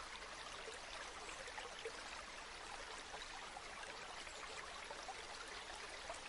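Flowing river water: a steady, even babble of running water with many small splashes and trickles through it.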